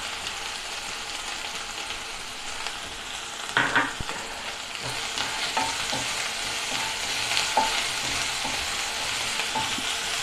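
Onions, curry leaves and ginger-garlic paste sizzling in a non-stick kadai as a spatula stirs and scrapes them round the pan, with a louder clack about three and a half seconds in.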